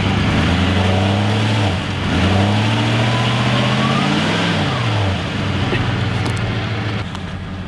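Vehicle engine revving hard under load, its pitch climbing to a peak about halfway through and then falling, over a loud rushing noise. The level drops a step near the end.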